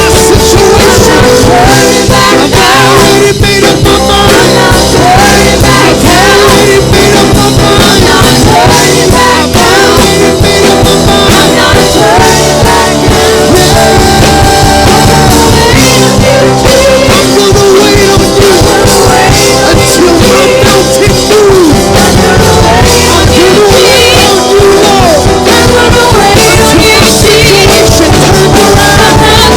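Worship band playing loud, steady rock-style music, with a voice singing over it.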